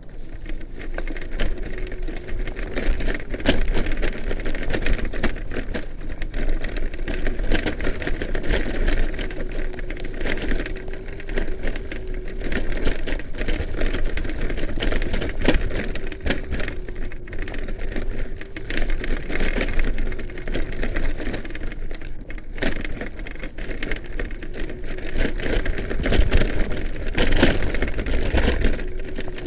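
Kugoo Max Speed electric scooter ridden over rough forest ground on tubeless tyres: a steady motor whine under constant irregular rattling and knocking from the frame over bumps, with a low rumble.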